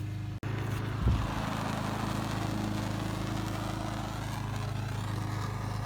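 Steady low hum of a lawn mower engine running nearby, under a steady blowing hiss from heat being put on the rubber heater hoses; one short thump about a second in.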